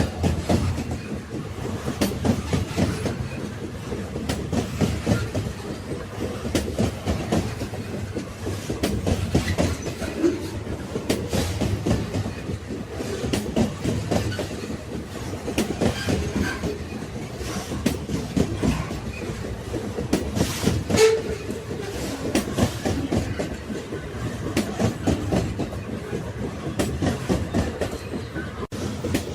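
Railway wagons rolling along the track: a steady rumble with wheels clacking and knocking over rail joints, and a brief squeak about two-thirds of the way in.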